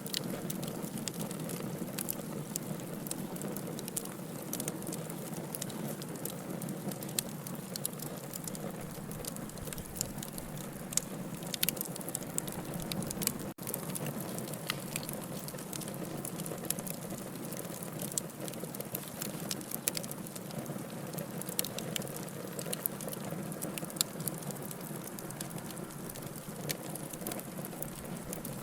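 Fire burning in a fireplace, crackling and popping irregularly over a steady hiss and low rumble, with a momentary break in the sound about halfway through.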